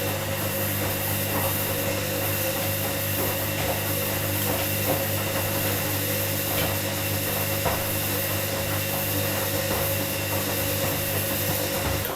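Washing machine running with a steady motor hum and faint knocks and sloshing from the tumbling drum, cutting off suddenly at the very end.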